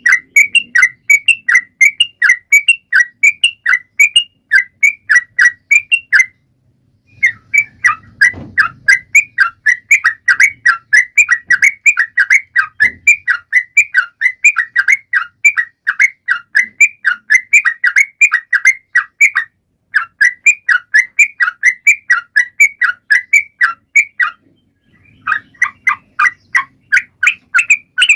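Yellow-vented bulbul (trucukan) singing a long run of quick, sharp notes, about five a second, broken by a few short pauses. A couple of faint low thumps sound beneath it in the first half.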